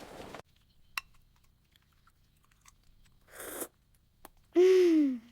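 A faint scuff and a single click, then near the end a breathy, sigh-like voiced 'ahh' whose pitch rises slightly and falls away.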